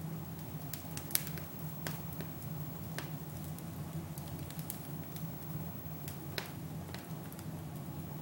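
Fire burning in a fireplace, crackling with irregular sharp pops over a steady low rumble; the loudest pop comes about a second in.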